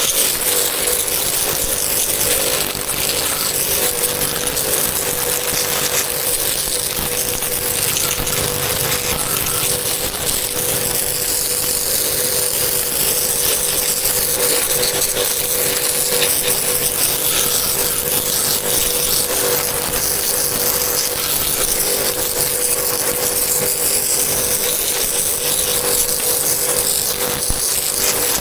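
A power tool running steadily with a constant whine over a loud hiss.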